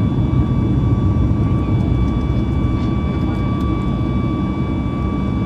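Cabin noise of a Boeing 737 MAX 8 climbing after takeoff on its CFM LEAP-1B engines: a steady low rumble with a thin steady whine above it.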